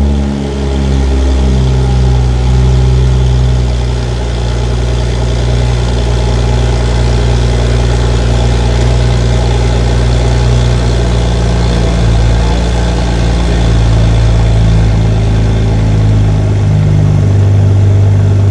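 BMW M340i's B58 turbocharged straight-six on a cold start, breathing through a Milltek sport downpipe with the rest of the exhaust still stock: the start-up rev flare falls away in the first second and settles into a steady idle.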